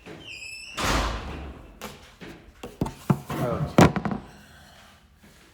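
A short rising electronic beep, then a heavy thud about a second in, followed by several knocks and clicks and a brief creak, the sharpest knock near the end; no engine is running.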